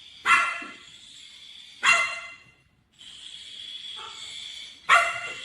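A dog barking three times, single barks with pauses of a second or more between them.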